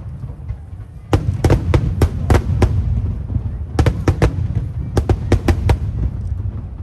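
Aerial fireworks shells bursting in quick clusters of sharp bangs, with a steady low rumble beneath.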